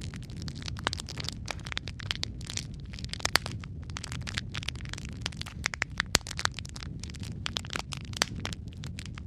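Wood fire crackling in a fireplace: a dense run of irregular snaps and pops over a low steady rumble of the flames, with a few louder pops scattered through.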